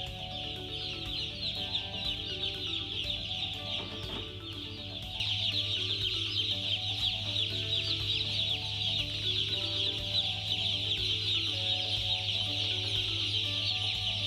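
Many broiler chicks peeping together in a continuous high chorus, which gets louder about five seconds in, over a steady low hum.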